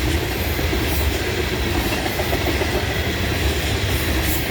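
Canadian National manifest freight train rolling past, a steady rumble and rush of steel wheels on rail.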